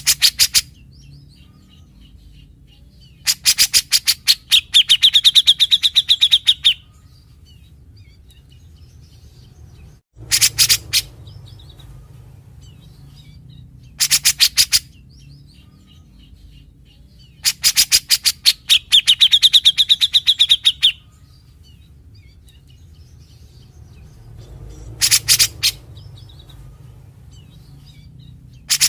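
Grey-cheeked bulbul (cucak jenggot) giving its harsh rasping 'besetan' calls: bursts of rapid rattling notes, about ten a second, some short and some around three seconds long with a high ringing note running through them. A steady low hum lies beneath.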